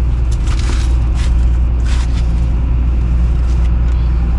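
Komatsu PC210 excavator's diesel engine idling with a steady low drone, with a few short scuffs and scrapes in the first two seconds.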